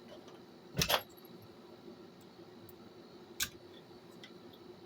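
Small hard parts being handled during disassembly of an old answering machine: a quick double knock about a second in and a single sharp click later, with a few faint ticks over a faint steady hum.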